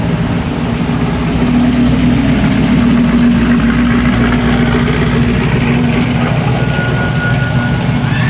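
A car engine running at a steady speed: a loud, even, low drone.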